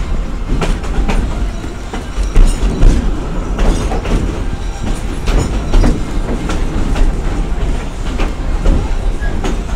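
Narrow-gauge steam train heard from an open-sided passenger car as it rolls along: a steady running rumble of the wheels, with irregular sharp clacks as they cross the rail joints.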